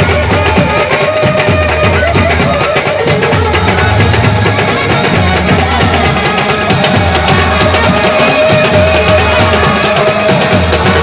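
Banjo-party band music: a banjo melody held over a steady, repeating drum beat.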